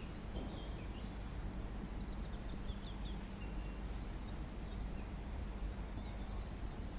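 Small birds chirping and twittering in many short, high calls, over a steady low rumble of wind or ambient noise.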